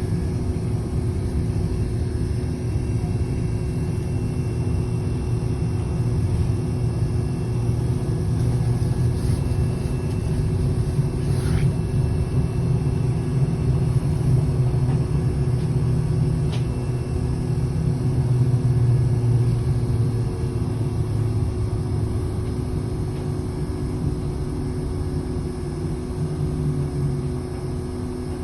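City bus on the move, heard from inside: steady engine and road rumble with a constant drone, swelling a little partway through and easing toward the end.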